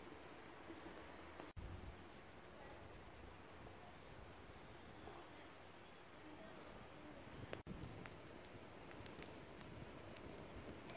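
Quiet outdoor ambience: a faint steady background hiss with a small bird singing runs of high, quick chirps, and the sound cutting out briefly twice.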